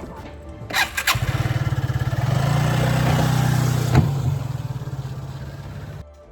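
A motor starts after a few clicks and runs with a rapid, pulsing hum, swelling and then easing off. There is a single knock partway through, and the hum cuts off abruptly near the end.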